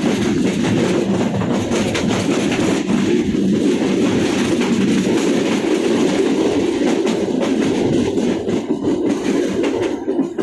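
Moving train: a steady rumble of wheels running on the rails, with faint clicks scattered through it.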